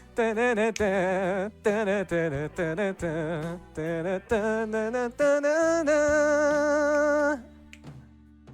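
A solo voice sings a wordless, wavering vocal line with heavy vibrato over a quiet guitar backing track. It ends in a long held note that stops about three-quarters of the way in, leaving the soft accompaniment.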